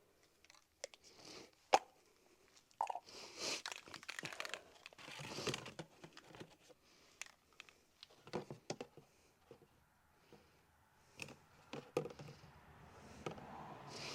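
Aerosol chain cleaner sprayed in short hissing bursts onto a motorcycle chain, with scattered clicks and knocks of the can and chain being handled.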